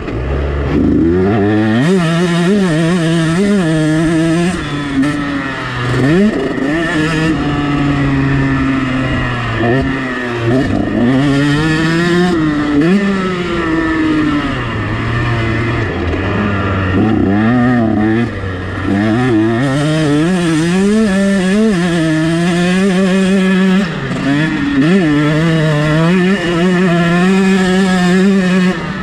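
KTM 125 SX single-cylinder two-stroke motocross engine revving hard, its pitch climbing and dropping again and again as the rider accelerates, shifts gear and backs off through the track's corners and straights.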